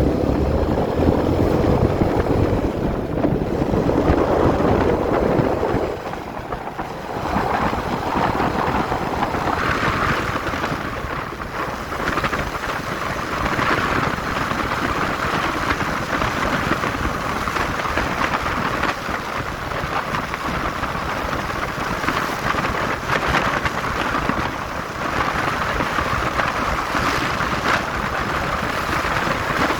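Motorcycle riding along a road, with wind rushing over the microphone. The engine is heard in the first few seconds, then a steady wind rush covers most of it.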